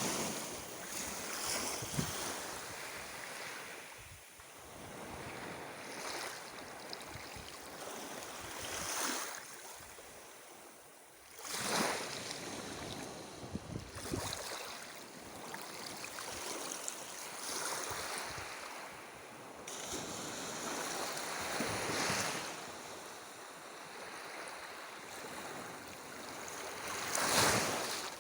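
Sea waves breaking and washing up on the shore, a surge every few seconds, the strongest near the end.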